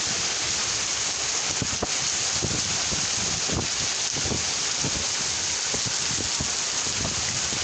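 Steady heavy rain falling, with a dense hiss and many separate drops pattering and splashing on nearby surfaces.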